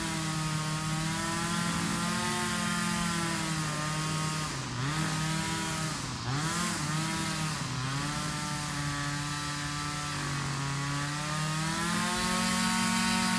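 Small two-stroke engine running steadily. Its speed sags sharply and picks back up three times about halfway through, then rises slightly near the end.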